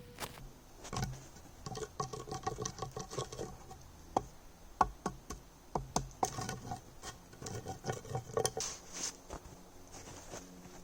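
Makeshift seat in a tree creaking and crackling under a person's weight as it is tried out, a run of irregular clicks and short creaks.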